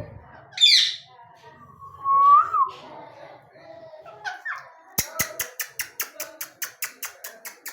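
Pet parrots calling: a sharp screech less than a second in, a whistled note that rises then drops around two seconds in, then from about five seconds a fast run of short clicking calls, about six a second.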